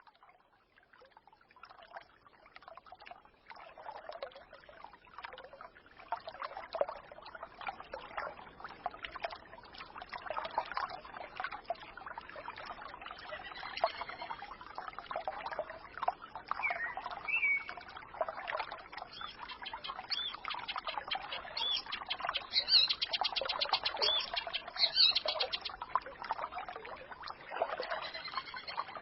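A small forest stream trickling and babbling, fading in from silence over the first few seconds. Songbirds chirp above it now and then, with a rapid high trill a little past the middle.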